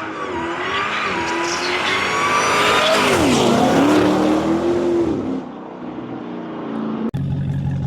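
Supercharged 6.2-litre HEMI V8 of a Dodge Challenger SRT, breathing through a K&N cone air filter, accelerating with a high supercharger whine over the engine note. The pitch climbs, falls sharply about three seconds in and climbs again, then drops to a lower, steadier note after a brief dropout near the end.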